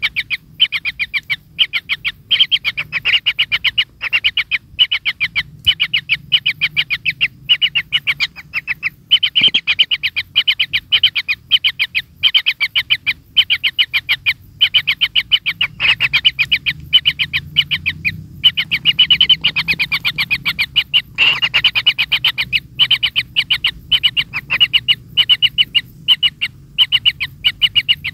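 Kingfishers calling at the nest: long, rapid trains of short, high chirps, many a second, in clusters broken by brief gaps.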